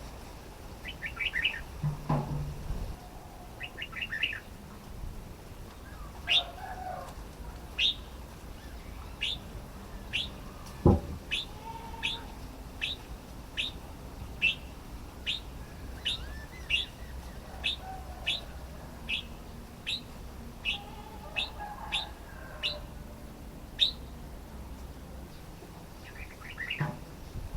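Red-whiskered bulbul calling: a couple of quick chattering phrases at first, then a long run of single sharp falling notes, about two a second, and another quick phrase near the end. A single thump about halfway through is the loudest sound.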